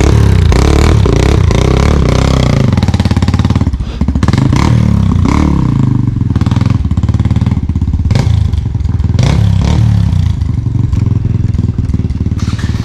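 Dirt bike engine running close to the microphone and revving, its pitch rising and falling as the throttle opens and closes, loudest over the first few seconds.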